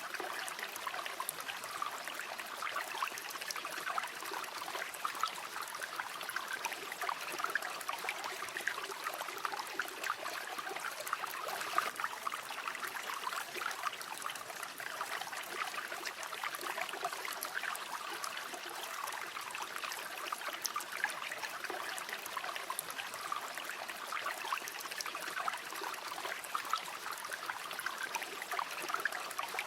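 River water flowing and babbling steadily, a continuous rush of water with many small gurgles and splashes.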